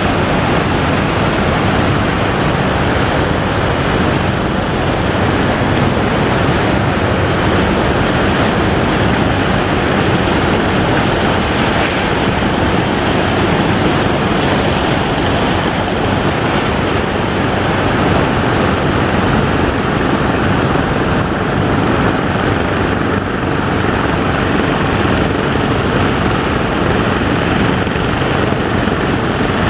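Heavy ocean surf breaking, a continuous loud wash of waves, with wind buffeting the microphone.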